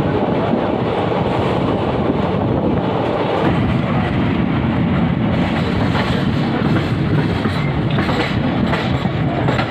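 Passenger train running on the rails, heard from an open door of the coach: a steady rumble and rush of wheels on track, fuller while running alongside a line of freight wagons until about three and a half seconds in. In the second half, repeated clicks of the wheels over rail joints and points as the train runs into the junction.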